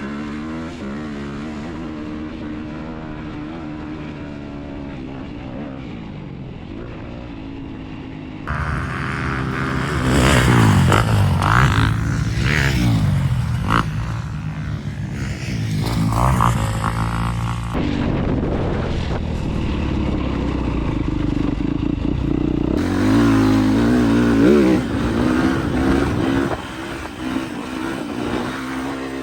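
Off-road vehicle engine revving up and easing off again and again, in several clips that cut abruptly from one to the next.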